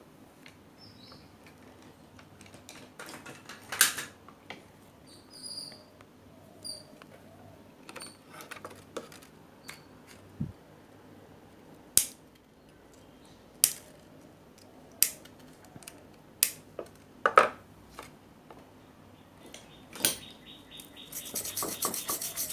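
Scattered sharp clicks and taps of small tools and parts being handled on an electronics repair bench, with a few faint high chirps about five to seven seconds in and a rapid rattling run near the end.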